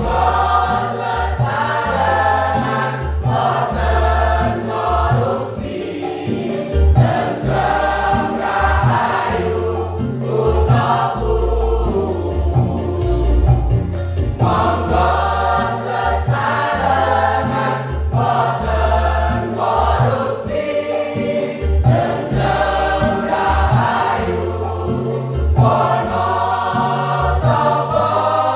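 Choir singing in parts, in phrases a second or two long, over instrumental accompaniment with a low bass line and short percussive beats.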